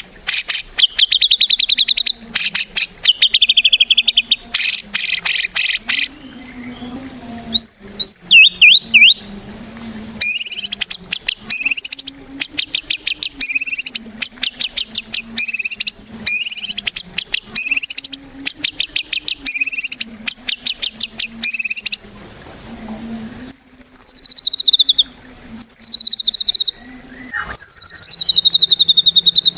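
White-rumped shama (murai batu) in full, loud song: phrases of fast rattling trills and rapid runs of sharp repeated notes, with short pauses between phrases, then falling whistled glides near the end.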